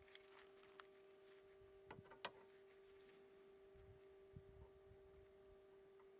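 Near silence: a faint steady hum, with a few light clicks about two seconds in.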